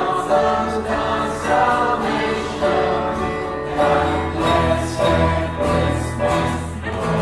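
A choir singing with instrumental accompaniment, holding sustained notes over a steady bass line.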